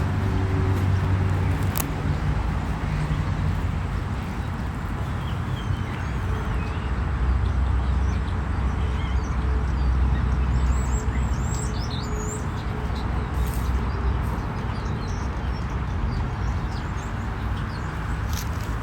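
A steady rumbling noise with a few short, high bird chirps about eleven to thirteen seconds in.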